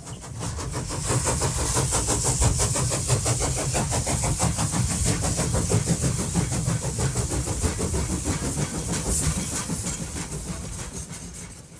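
Indian diesel locomotive's engine running loudly with a fast, even beat over a deep rumble and a high hiss. It builds over the first second and fades near the end.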